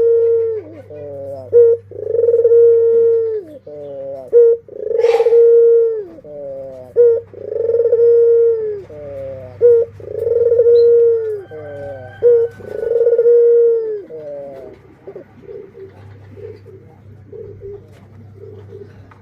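Barbary dove (ringneck dove) cooing in its song. The phrase repeats about six times: a sharp short note, a run of quick falling notes, then a long, steady coo. The cooing stops about fifteen seconds in, leaving only faint short calls.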